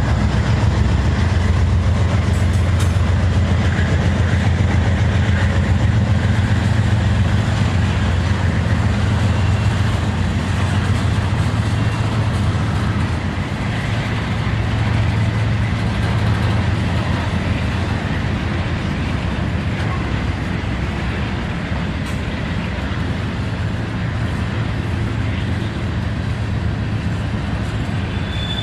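Diesel freight locomotive running with a steady low drone, easing off slightly about halfway through.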